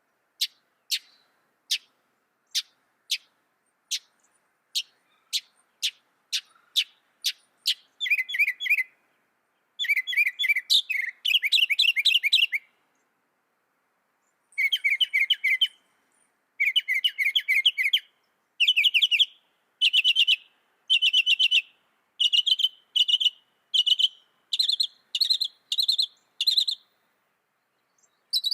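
Mockingbird singing: a run of sharp, clicking notes that comes faster and faster, then a string of rapid trilled phrases, each lasting one to two seconds, with short pauses between them.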